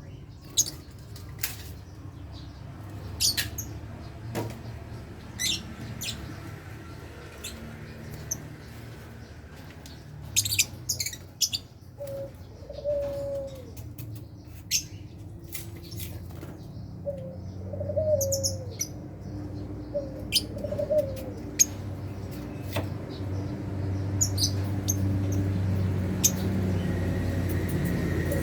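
Lovebirds in a colony cage giving short, shrill chirps scattered throughout, with wing flutters. A lower cooing call comes about four times in the second half, over a steady low hum.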